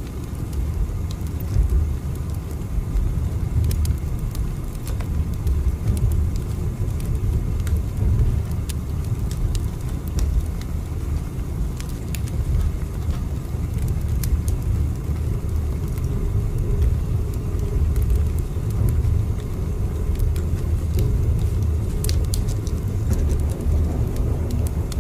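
Train running with a steady low rumble and faint, scattered clicks.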